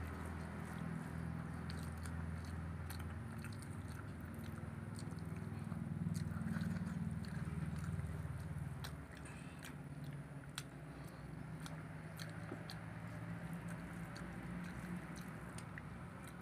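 Chewing and mouth sounds of people eating rice and egg curry by hand, with scattered sharp clicks over a steady low hum.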